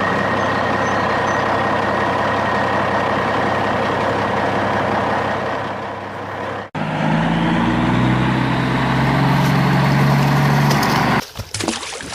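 Truck engine running, as two joined clips. The first is a steady rushing drone with a faint whistle; it cuts off abruptly about two-thirds of the way in. The second is a lower engine note whose pitch steps up as it revs, stopping shortly before the end.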